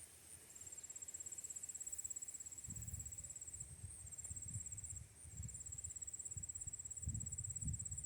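Field insects trilling in a steady high, rapidly pulsing chorus that breaks off and resumes a few times, with irregular low rumbles on the microphone.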